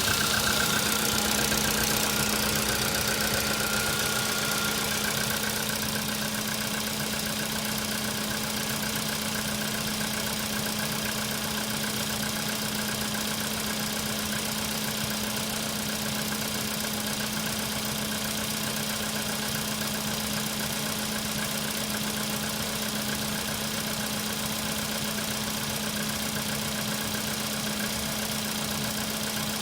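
Car engine idling cold with a knocking sound, the cold-engine knock the video is about. It is a little louder at first and settles to a steady idle about five seconds in.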